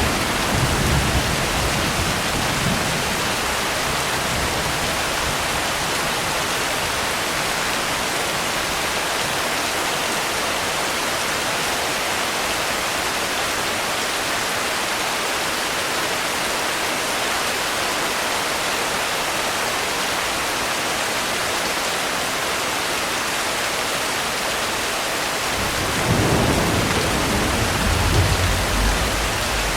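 Steady heavy rain, with low thunder rumbling away over the first few seconds and another roll of thunder swelling up about 26 seconds in.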